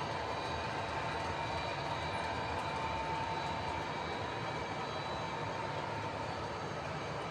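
Model train running on the layout: a long train of box cars behind two engines, giving a steady rolling and motor hum with a faint steady whine.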